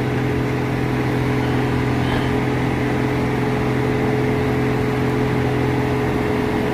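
Heavy diesel engine running steadily at a constant speed, an even hum that holds its pitch throughout.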